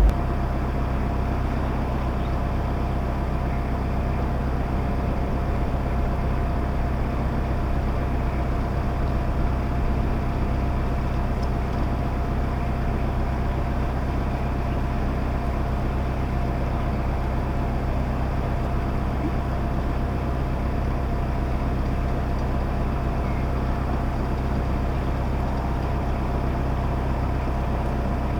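Narrowboat's diesel engine running steadily at cruising speed, a constant low hum with a couple of steady higher tones.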